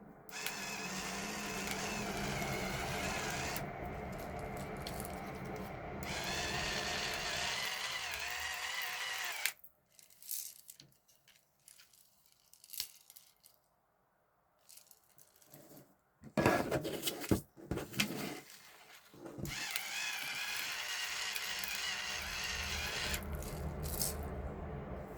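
Rechargeable electric pepper grinder's motor running as it grinds black peppercorns on its very fine setting, in two long steady runs. Between them comes a short spell of loud clattering and knocks.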